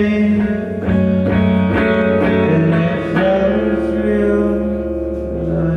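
Guitar strumming chords, each left to ring out between strokes, with a low note held underneath from about three seconds in.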